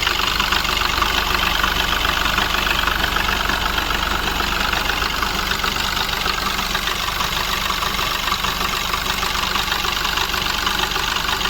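Mahindra Bolero Neo's three-cylinder diesel engine idling steadily with a knocking misfire. The knock comes with a fuel rail pressure sensor fault (code P0193, signal high) that the scanner reports.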